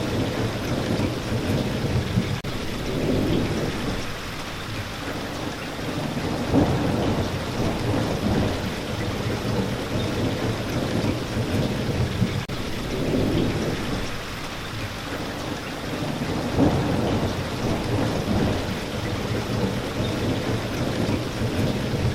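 Steady heavy rain with low rolling thunder that swells and fades every few seconds.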